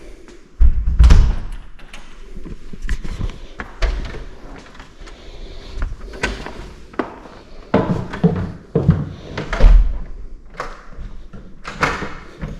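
Interior doors being handled and shut, a string of knocks and thuds with two heavy slams, one about a second in and one near ten seconds.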